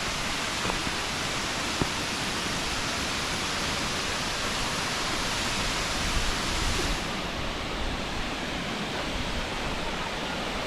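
Steady roar of rushing water from the Aber Falls waterfall and its river, Afon Goch. About seven seconds in, the highest part of the hiss drops away and the sound becomes duller.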